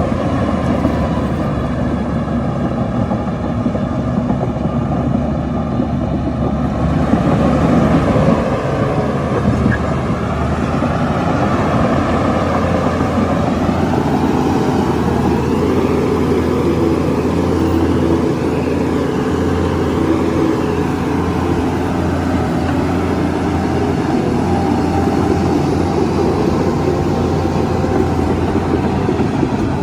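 Heavy diesel engine of earthmoving machinery running steadily under work, getting louder for a moment about a quarter of the way in.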